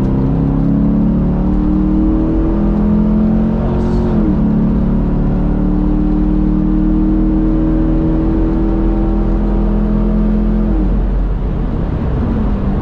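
Chevrolet Camaro V8 engine under hard acceleration on a race track: the pitch climbs, drops sharply about four seconds in at a gear change, climbs again for several seconds, then falls away near the end as the throttle comes off.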